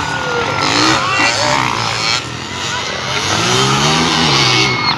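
Motocross dirt bike engines running out on the track, one revving up and back down in pitch about four seconds in.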